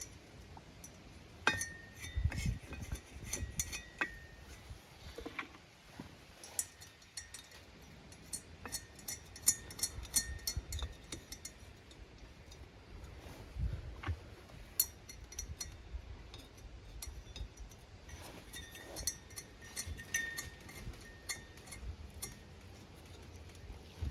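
Small steel parts clinking: lock washers and nuts being handled and fitted onto the exhaust manifold studs of a two-stroke snowmobile engine, many light sharp clicks with brief metallic ringing twice.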